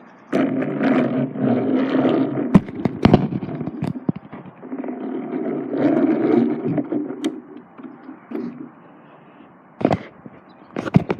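Battery-powered toy train's motor running along the track, a steady geared hum in two stretches of about four seconds with a brief break between, mixed with sharp clicks and knocks.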